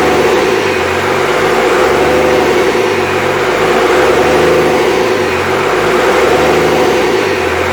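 Freshly rebuilt Cummins 5.9L 12-valve inline-six diesel engine running steadily.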